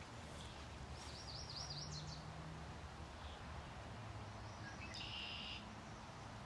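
Faint outdoor ambience with a steady hiss and songbirds singing: a quick run of about six high, slurred notes about a second in, and a second short song near the end.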